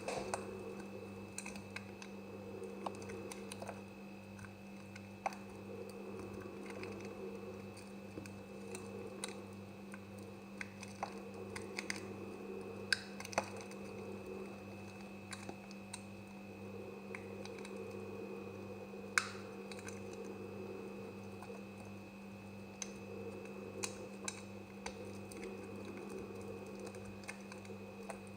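A knife cutting semi-dry soap, giving irregular crisp, crunchy clicks, a few of them louder, over a steady low hum.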